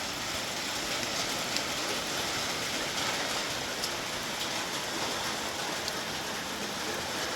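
Steady heavy rain falling, an even hiss with a few faint drop ticks scattered through it.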